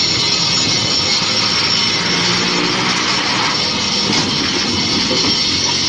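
Loud, steady rushing noise of a moving vehicle, its engine and road noise blending with a strong hiss.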